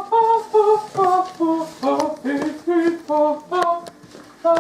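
A voice singing a tune of short held notes that step up and down in pitch, with no accompaniment.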